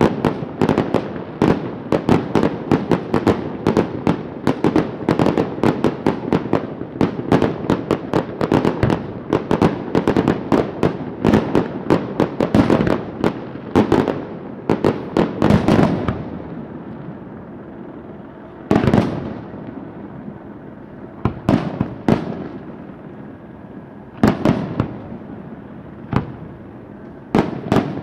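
Fireworks display: a dense, rapid run of bangs and crackles for the first half, thinning after about sixteen seconds to single loud bangs every second or two.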